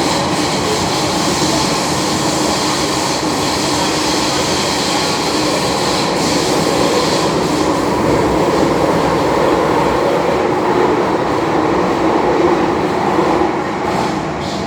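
MTR M-Train metro train running through a tunnel, heard from inside the car: a steady rumble of wheels on rail and running gear.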